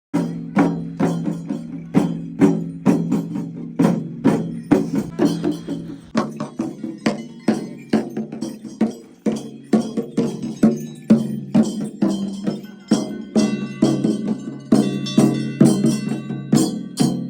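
Rhythmic percussion music: sharp, ringing strikes about two a second over a low steady drone, with bell-like ringing tones joining in the second half.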